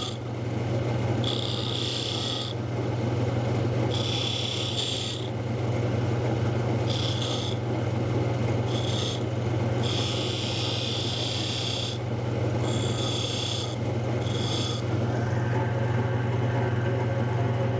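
Wood lathe running with a steady low hum while a turning tool cuts a groove into the spinning wooden spindle, in about seven short bouts of hissing scraping as the tool is pressed in and drawn back.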